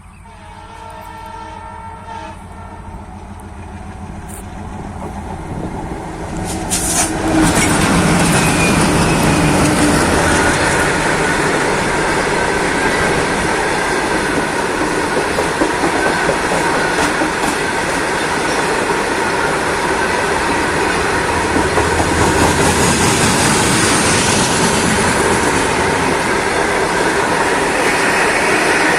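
A train horn sounds as a fast train approaches, growing louder. About seven seconds in, the train reaches the spot and passes at speed, its wheels and cars making a loud, steady rush and clatter on the rails.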